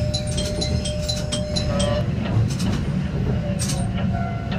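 Diesel railcar running along the track, a steady low rumble. A level-crossing warning bell rings about four times a second through the first half, then fades.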